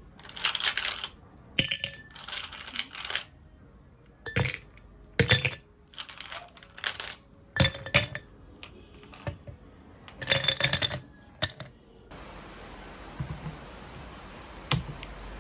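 A series of separate handling sounds, hard objects knocking and clinking with a brief ring, like dishes and utensils being picked up and set down. About twelve seconds in they stop and a steady hiss takes over, with one sharp click near the end.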